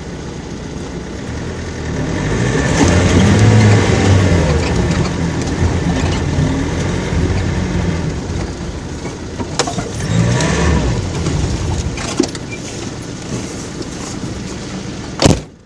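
Off-road jeep engine revving hard in two bouts, pitch rising and falling, as it struggles for traction on the obstacle. A sharp crack about a second before the end.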